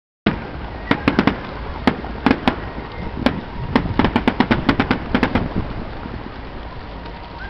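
Fireworks display: a rapid, irregular run of sharp bangs and crackles, many of them close together, thinning out in the last couple of seconds. The sound starts after a brief silent dropout in the recording.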